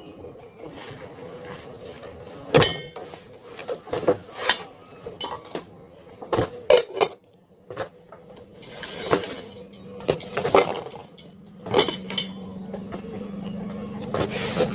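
Utensils clinking and knocking against dishes during a meal, in a string of separate, irregular clinks.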